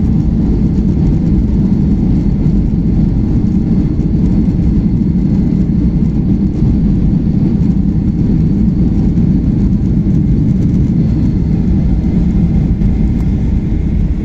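Airliner jet engines and airflow heard from inside the passenger cabin: a loud, steady, deep rumble with a faint high whine.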